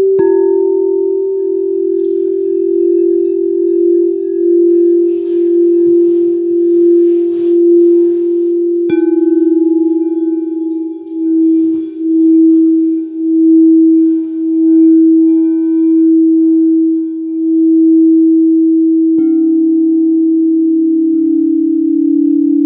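Singing bowls ringing: a strong sustained low tone that wavers in a slow pulse. A new bowl is struck about nine seconds in and again near the end, each a little lower in pitch than the one before.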